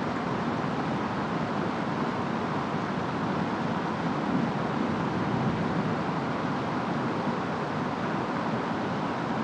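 Steady rain and wind of a rainstorm, an even dense hiss that swells slightly around the middle.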